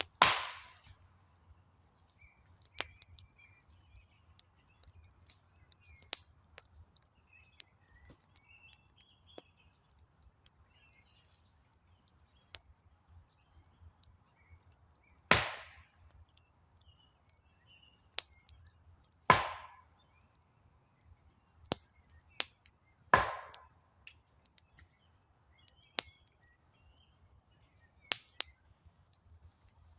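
Wood campfire crackling: sparse small clicks and four loud, sharp pops from the burning wood, one near the start and three more in the second half. Faint birds chirp now and then.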